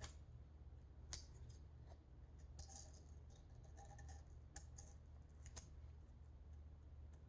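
Faint scattered clicks and light scratching of masking tape being trimmed and pressed down onto a metal part, about six small ticks spread over several seconds, over a low steady hum.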